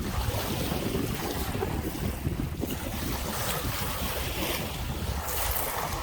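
Wind buffeting the microphone over waves washing onto the Lake Michigan shore, with a louder wash of surf near the end.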